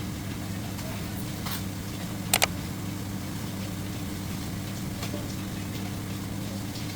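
An engine running steadily at an even pitch, with two sharp clicks close together about two and a half seconds in.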